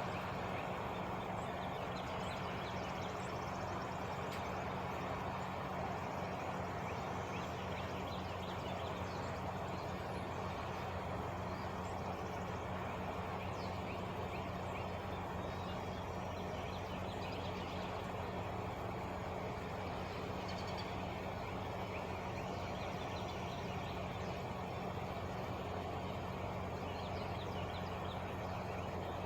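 Truck engine idling steadily, an even low hum that neither rises nor falls.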